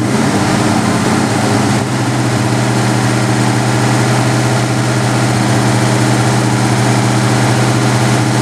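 A motor or engine running steadily, a constant even-pitched hum with a hiss over it.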